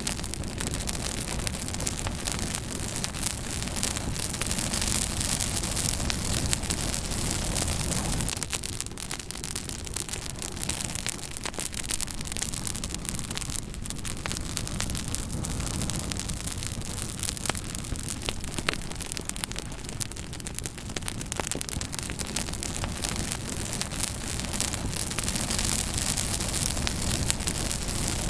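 Fire crackling steadily: a constant hiss with many sharp pops and snaps scattered through it.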